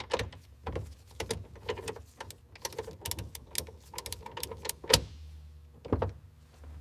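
A quick, irregular run of light clicks and knocks, some with a short ring to them, with one louder knock about five seconds in.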